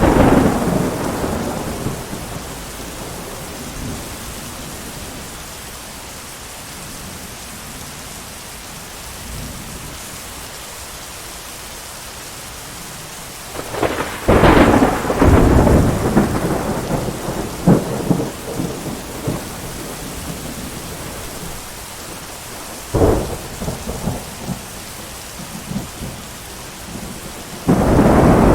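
Steady heavy rain with thunder: a rumble fading away at the start, a loud peal about halfway through followed by a few sharp cracks, another crack later, and a new rumble building near the end.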